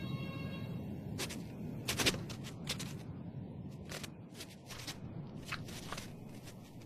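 Arctic fox's paws stepping softly, a few short crunches spaced a second or more apart, over a low steady rumble.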